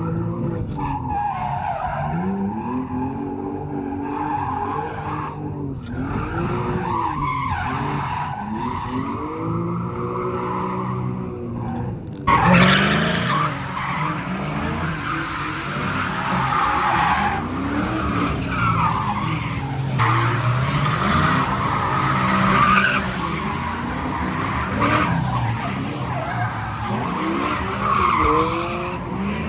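Drift cars sliding, their engines revving up and falling back over and over while their tyres squeal. About twelve seconds in the sound turns suddenly louder and brighter.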